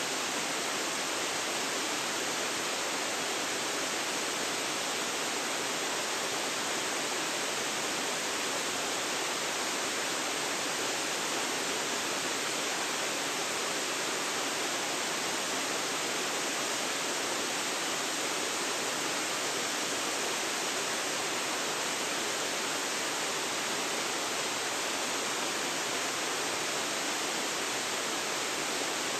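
Waterfall pouring steadily, an even rushing of falling water with no change.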